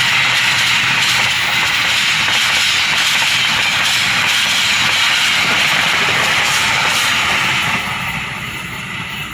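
A train passing at speed: a loud, steady rush of wheels on the rails that drops off about eight seconds in as it goes by.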